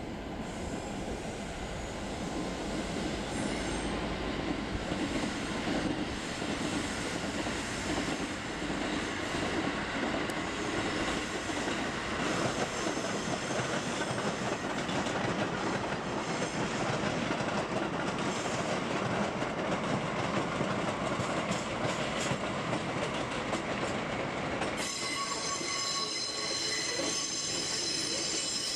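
Electric passenger trains running over the tracks, a steady rumble and rattle of wheels on rails. About 25 seconds in, the sound changes abruptly to a lighter one with thin high squealing tones from the wheels.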